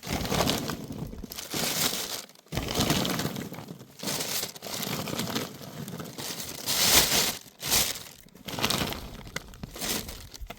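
Irregular crunching and crackling, in a series of uneven noisy bursts; the loudest comes about seven seconds in.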